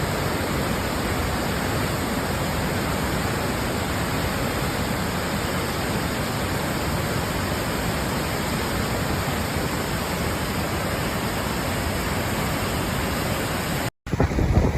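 Steady, even rushing of a swollen river in flood, with no break until it cuts off near the end.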